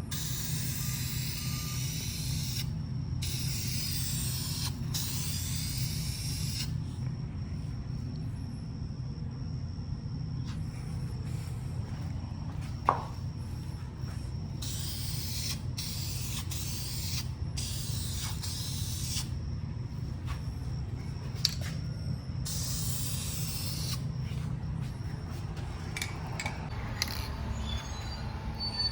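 Aerosol spray paint can hissing in repeated bursts of one to four seconds with short pauses between them, as paint is laid on. A steady low hum runs underneath, and there is a single sharp click about halfway through.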